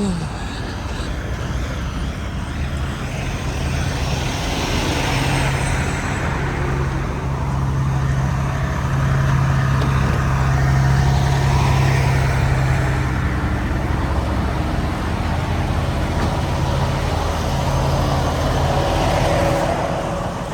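Semi-truck diesel engine running with a steady low hum and road noise as the truck moves, growing louder toward the middle and easing near the end.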